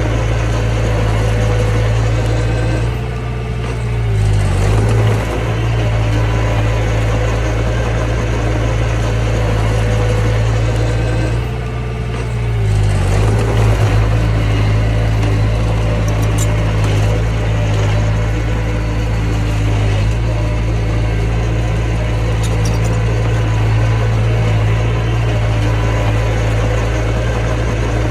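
Diesel engine of a mini bulldozer running steadily at working speed; twice, about three seconds in and again about twelve seconds in, the engine note drops briefly and then picks back up.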